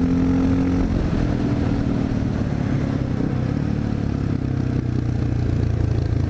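Honda XR650L's single-cylinder four-stroke engine running under way; about a second in the engine note drops as the revs fall for a sharp curve, then it carries on at lower revs, building slightly near the end.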